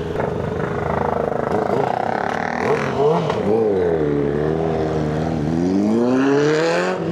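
Motorcycle engine running and being revved. Its pitch rises and falls a few times, then climbs steadily near the end.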